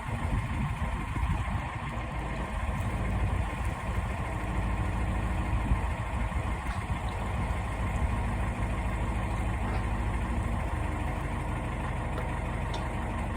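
Canal boat's engine running steadily at low revs, a constant low rumble.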